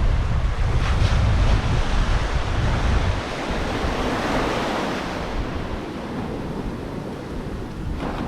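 Ocean surf washing onto the beach, an even rush of breaking waves, with wind buffeting the microphone as a low rumble that drops away about three seconds in.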